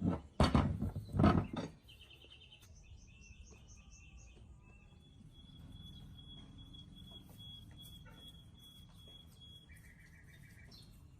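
Three loud rubbing strokes, like hand sanding, in the first second and a half. Then small birds chirp in quick repeated series, over a long steady high-pitched tone lasting several seconds.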